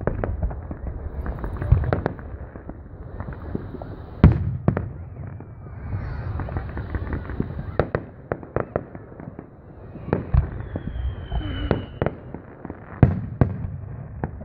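Aerial fireworks bursting: a steady run of sharp bangs and crackles, the loudest about four, ten and thirteen seconds in. A brief high whistle comes about eleven seconds in.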